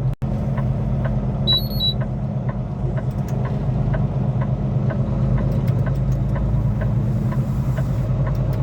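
Semi-truck diesel engine running steadily, heard inside the cab, with a signal flasher ticking about twice a second. A short electronic beep sounds early on the dash.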